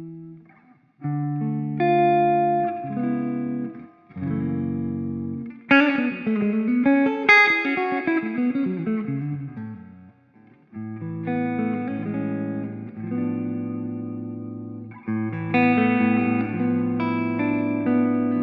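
Electric guitar played through a Ring Red Swan distortion pedal: held distorted chords, then a single-note lead line with bent notes about six seconds in, then held chords again from about eleven seconds.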